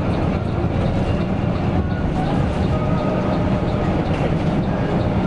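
Mercedes-Benz OC 500 RF 2542 coach under way: a steady low rumble of engine and road noise, with faint light clicks and rattles.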